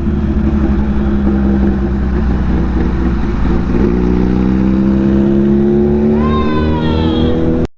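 Kawasaki Ninja 650 parallel-twin engine running at a steady highway cruise under wind rush. The engine's pitch climbs gradually over the second half, and near the end a higher tone sweeps down in pitch.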